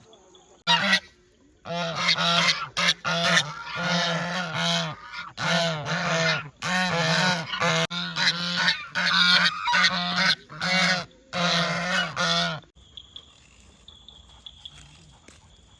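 Geese honking loudly and repeatedly, about a dozen harsh calls in a quick run that stops near the end. Faint insect trilling follows.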